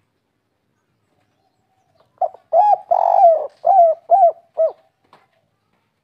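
Spotted dove (tekukur) giving one cooing phrase about two seconds in: a short lead-in note, a longer drawn-out coo, then three short clipped coos at the end, the 'kuk 3' ending that keepers prize.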